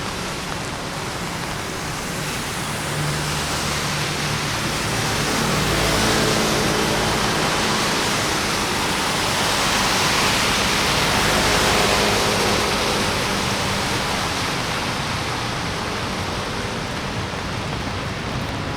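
Steady rain and city traffic on a wet road. A vehicle passes about halfway through, its tyre hiss and engine swelling louder and then fading.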